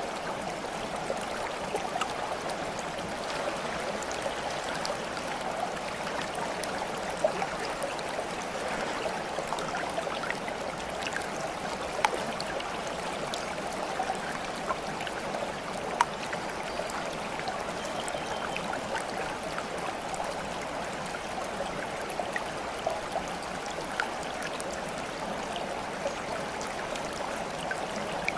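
Running water in a steady babble, like a small stream, with scattered sharp drips and splashes, a few of them louder, about twelve and sixteen seconds in.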